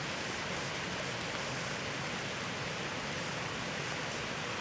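Steady rain falling, an even hiss with no distinct drops or other events.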